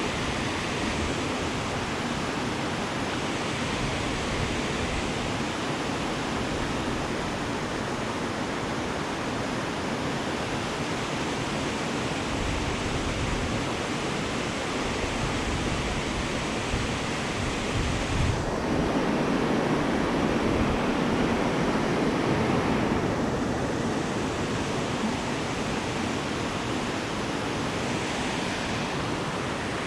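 Rushing of a river in flood, with whitewater making a steady roar of running water. It grows louder for several seconds a little past the middle, then settles back.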